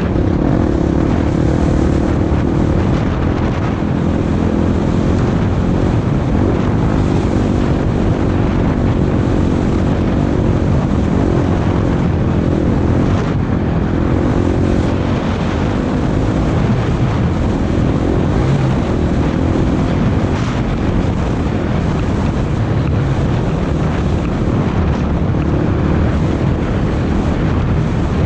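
Off-road vehicle engine running steadily under way, with wind noise on the microphone.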